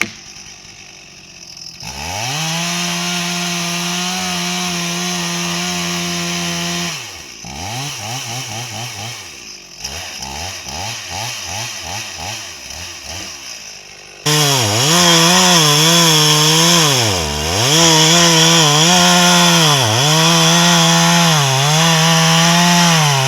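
Two-stroke chainsaw revving up to full throttle about two seconds in, falling back to a lower, uneven speed around seven seconds, then at full throttle again from about fourteen seconds, its pitch dipping repeatedly as it bogs under load cutting wood.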